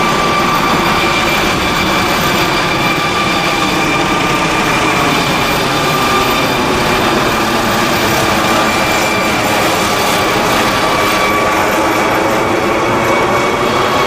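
Helicopter taking off: loud, steady engine and rotor noise with a steady high turbine whine.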